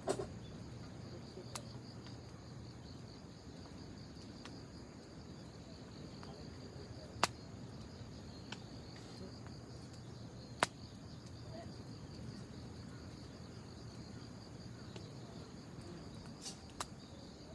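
Wood fire burning quietly, giving off a handful of sharp, isolated crackles and pops several seconds apart. Under it runs a faint, steady high trill.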